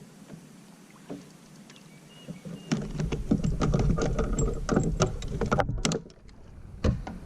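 A flurry of irregular knocks and rattles with a low rumble for about three seconds, then a single knock about a second later: gear being handled against a plastic kayak.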